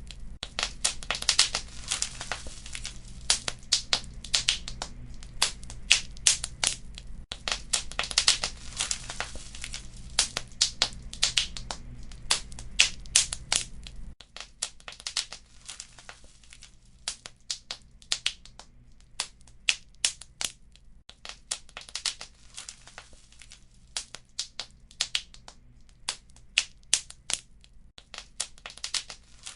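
Wood fire crackling in a fireplace: many sharp snaps and pops over a low steady rumble. The rumble drops away about halfway through, and the snaps grow sparser after that.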